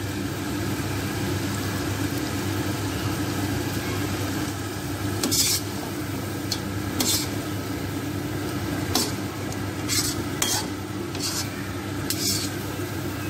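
Chicken karhai sizzling in a karahi while a spatula stirs it, scraping against the pan in a handful of short strokes every second or two. The masala is frying in the oil it has begun to release, a sign the dish is nearly done.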